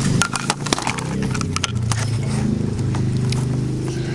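Dirt bike engine idling steadily, under a scatter of sharp clicks and knocks that come thickest in the first two seconds.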